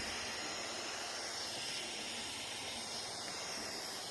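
Steady hiss with no distinct events.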